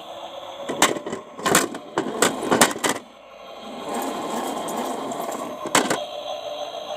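Toy washing machine with bricks or small rocks inside: a run of sharp knocks through the first three seconds, then the small motor whirring steadily, with one more knock near six seconds.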